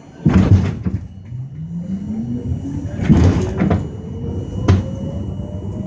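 R42 subway car pulling away from a station: a loud clatter a moment in, then the traction motors' whine rising steadily in pitch as the train gathers speed, with a few sharp knocks from the car along the way.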